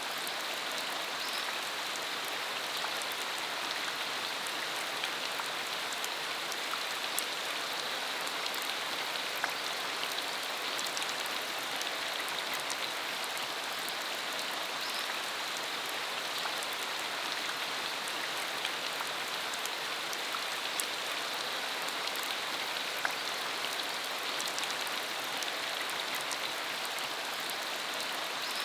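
Steady rain falling on a dirt country road: a constant even hiss, with many individual drops ticking through it.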